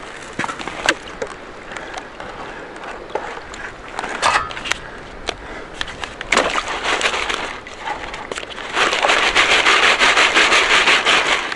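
Gravel and stones scraped and knocked in a shallow riverbed dig: scattered clicks and knocks, then a loud, rapid, rasping scrape for the last few seconds.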